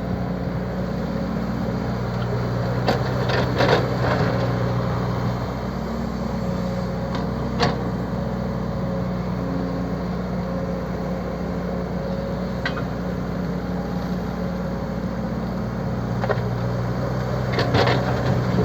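An engine running steadily at a low, even hum, with a few sharp clicks and knocks over it, the loudest a cluster about three to four seconds in and another near the end.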